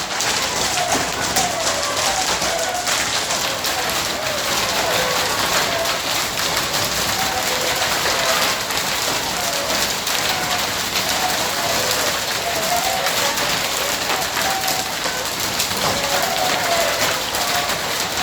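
Hailstorm: hailstones falling hard in a dense, steady clatter of small impacts.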